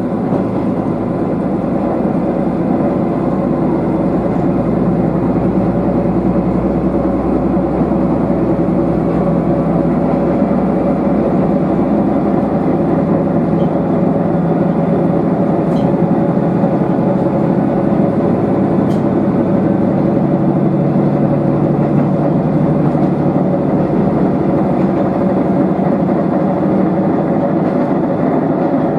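Diesel railcar running along the line, heard from inside the car: a steady drone of the engine and the running gear.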